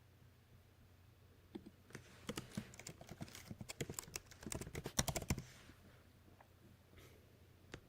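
Typing on a computer keyboard: a quick run of keystrokes lasting about four seconds, then a few single key presses near the end.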